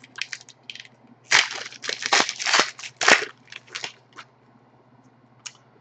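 Crinkling and tearing of a trading card pack wrapper as it is opened, in irregular bursts for about four seconds, then a few faint rustles.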